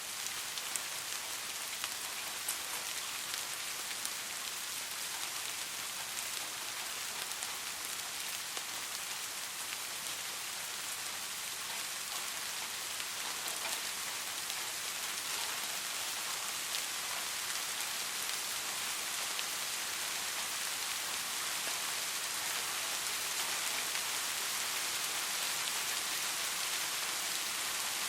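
Steady soft rain falling on a surface: an even hiss with scattered small drop taps throughout.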